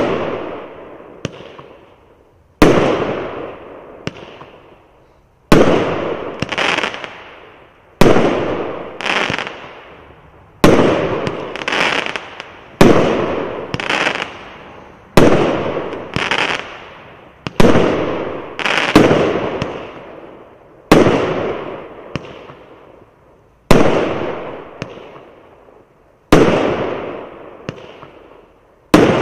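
A 24-shot, 25 mm fireworks cake (Sky Hawks SU2524) firing shot after shot: a sharp loud bang roughly every two to three seconds, each followed about a second later by a softer second bang and dying away before the next.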